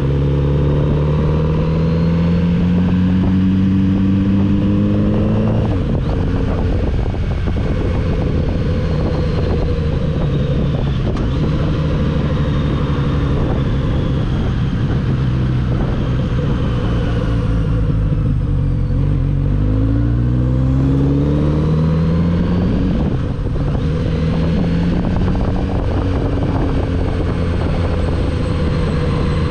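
Kawasaki Z900RS inline-four engine under way. It pulls up through the revs with rising pitch, changes gear about six seconds in and runs at steady revs. Around twenty seconds in the revs climb again and then settle.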